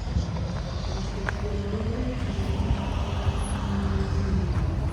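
Car engine running steadily, its pitch rising a little about two seconds in.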